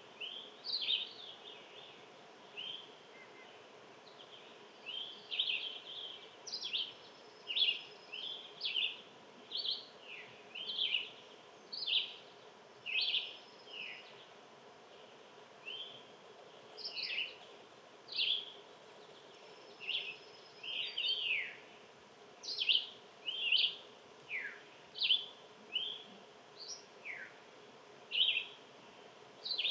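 Small songbirds chirping: short, sharp, often downward-sliding chirps, one or two a second, over a faint steady hum.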